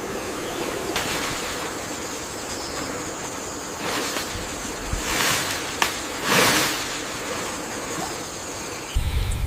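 Steady rushing noise, like wind or water, that swells louder a few times in the second half, with one sharp click just before the loudest swell.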